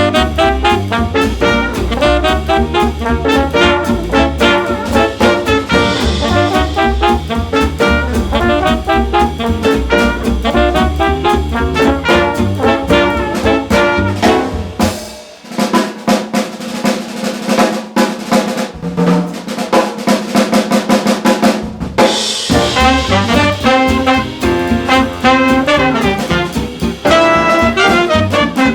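Up-tempo instrumental swing jazz from a big band with trumpets and trombones over a fast rhythm section. About halfway through the band drops out for a drum break of rapid snare and cymbal strokes. The full band comes back in near the end.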